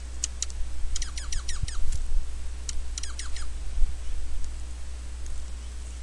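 Small songbirds at a feeder giving quick, sharp chirps that sweep down in pitch, in two short runs about a second and three seconds in, over a steady low rumble.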